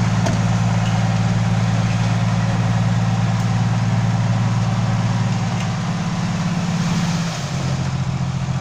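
Six-wheel dump truck's diesel engine running steadily, its note dropping to a lower, quieter run about seven seconds in.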